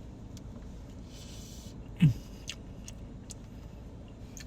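A person chewing a hot, fresh bite of food, with faint wet mouth clicks and a brief hummed "mm" about two seconds in, over a steady low rumble.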